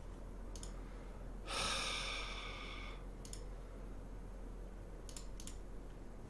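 A long exhaled sigh lasting about a second and a half, with a few faint computer-mouse clicks before and after it.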